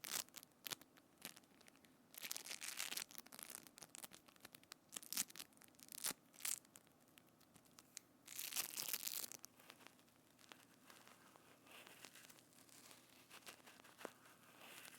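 Close-miked ASMR trigger sounds on binaural microphones: irregular crackling, crinkling bursts, several strong ones in the first nine seconds, then fainter crackling.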